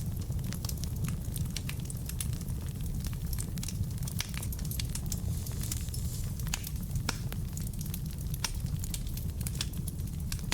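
Log fire burning in a fireplace: a steady low rush of flame with frequent irregular sharp crackles and pops from the burning wood.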